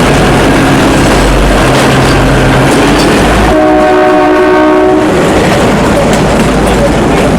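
Train running with loud, steady rolling noise; its horn sounds once for about a second and a half, midway through.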